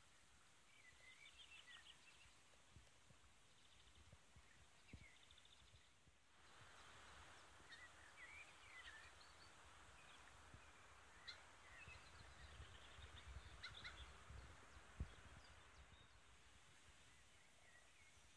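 Faint, distant birdsong: scattered chirps and short trills from several birds, over a quiet low rumble. A couple of soft low thumps, the sharper one about three-quarters through.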